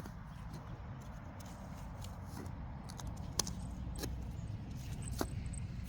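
Hand-digging in soil for sweet potatoes: scattered light clicks and scrapes of a digging tool and dirt, over a steady low rumble.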